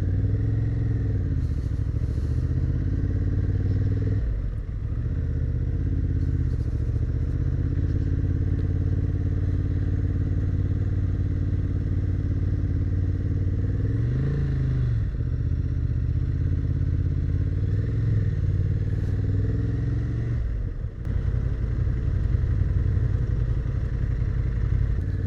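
A Honda Hornet 1000's inline-four engine running under way, its revs rising and falling with the throttle. It drops off briefly twice, about four seconds in and again near twenty-one seconds.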